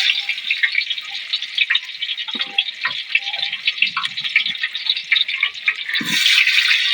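Sliced onions sizzling and crackling in hot oil in a large cooking pot, with a loud, dense hiss of tiny pops that swells louder about six seconds in.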